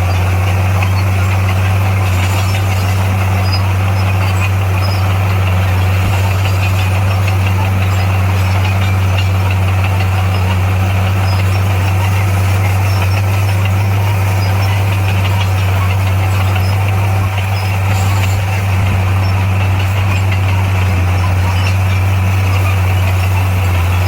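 Heavy-equipment diesel engine running steadily with a loud, even low drone.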